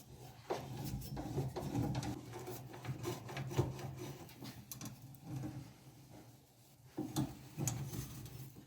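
Hand pipe cutter being turned round a piece of exhaust pipe, its cutting wheel scraping and rubbing with irregular clicks as the blade digs into the pipe and cuts it.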